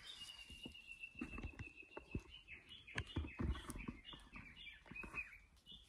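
A songbird singing in forest: one long, steady whistled note lasting about two and a half seconds, then a run of short, quick descending notes. Soft low thumps sound under it.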